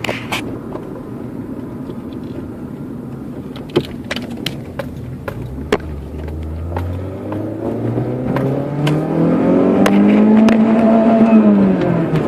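Volvo V40's engine running, then pulling up through the revs: the pitch climbs steadily for several seconds from about halfway, peaks, and eases off near the end, getting louder as it climbs. Scattered sharp clicks sound over the engine.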